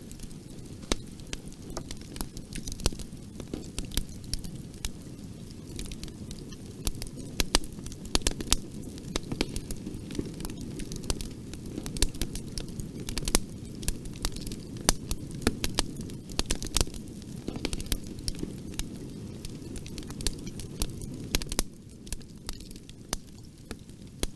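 Wood fire crackling in a fireplace: many sharp pops and snaps, irregular and frequent, over a low steady rumble of the flames. The rumble drops a little near the end.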